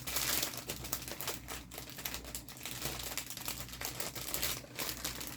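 Small plastic packets of diamond painting drills crinkling and rustling as they are handled and sorted through, with many small irregular clicks.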